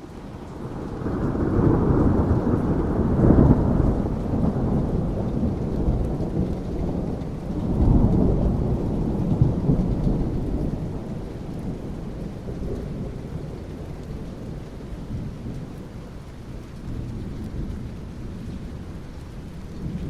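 Thunder rumbling over steady rain. A long, low rolling rumble swells in the first few seconds, peaks again about eight seconds in, then slowly dies away under the hiss of the rain.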